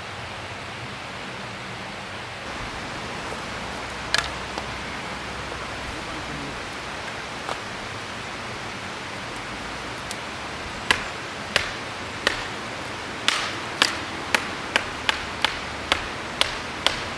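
Steady rush of flowing river water, with one sharp knock about four seconds in and, from about eleven seconds on, a run of a dozen sharp knocks at about two a second.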